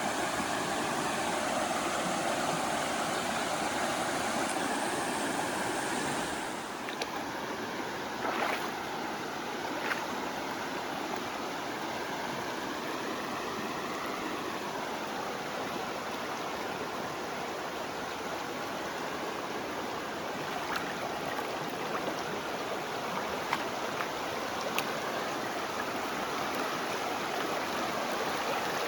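River water running steadily over the riverbed, a continuous rush, with a few brief ticks on top.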